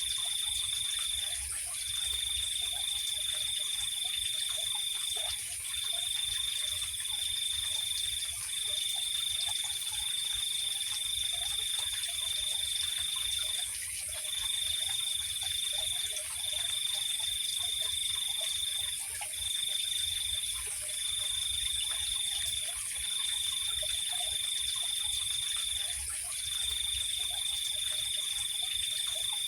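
Night insect chorus: a cricket trilling on one high pitch in long stretches of one to four seconds with short breaks, over a steady, even higher insect hum.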